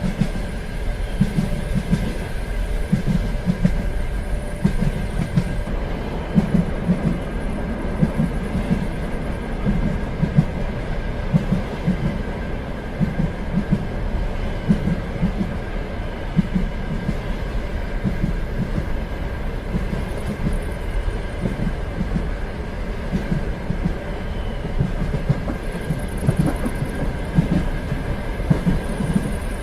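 Train running steadily on the rails, heard from inside a carriage: a continuous low rumble with irregular wheel knocks over rail joints and a faint steady high hum.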